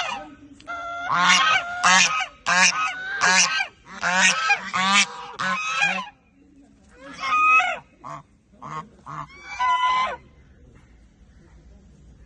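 White domestic goose honking: a rapid run of loud honks for about five seconds, then a few scattered honks.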